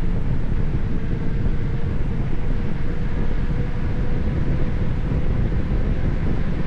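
Wind buffeting the microphone as a steady low rumble, with a faint steady hum that drifts slightly upward in pitch.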